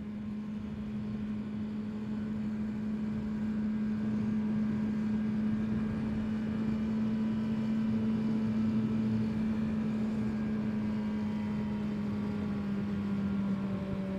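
Honda CBR650R's inline-four engine running at a steady cruising speed, one held engine note under a steady rush of wind noise, growing slightly louder over the first few seconds.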